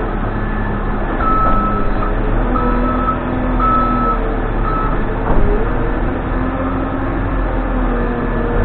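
Case 580N backhoe loader's diesel engine running, its pitch drifting up and down as the machine works, with the reversing alarm beeping about four times in the first half.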